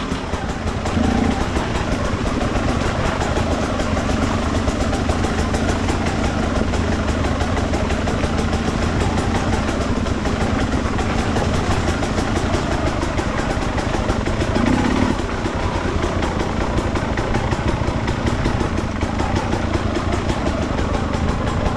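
Enduro dirt bike engine running at low revs while riding over rough, rocky ground, with a short rise in revs about a second in and again around fifteen seconds in.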